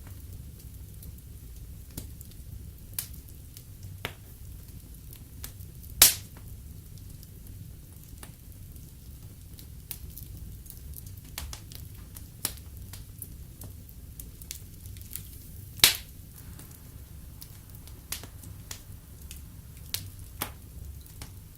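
Wood fire burning in a fireplace: a steady low rumble with scattered irregular crackles, and two sharp, louder pops, one about six seconds in and one past the middle.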